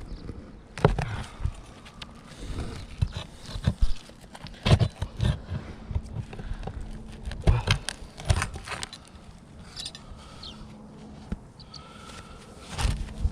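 Claw hammer knocking and tapping on an asphalt shingle roof in irregular single strikes and short clusters, with scraping between them, as the nails holding a damaged shingle are worked loose.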